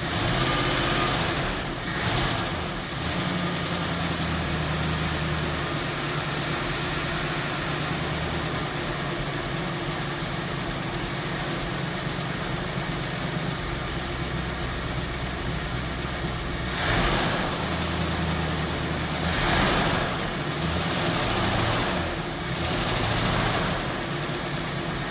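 1969 Mercury Cougar's V8 engine running at idle, freshly started after sitting, with a few brief swells in loudness, one about two seconds in and several more in the last third.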